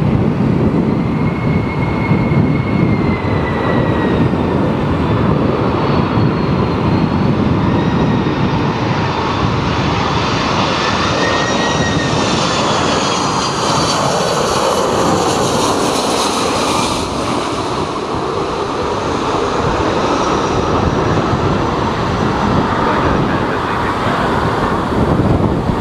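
Jet airliner's engines passing low on landing approach: a steady rush with a whining fan tone that slowly shifts in pitch, at its closest and brightest about halfway through, over strong typhoon wind buffeting the microphone.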